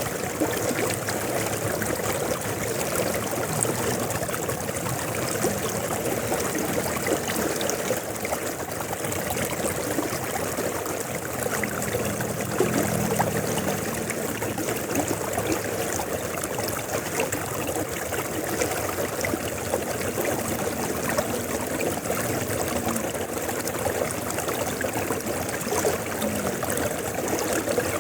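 River water flowing steadily with a continuous, even rush.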